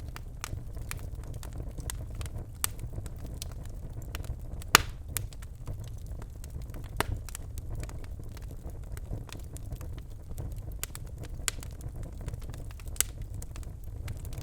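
Birchwood fire burning in a fireplace: a steady low rumble of the flames with irregular crackles and sharp pops, the loudest pop about five seconds in.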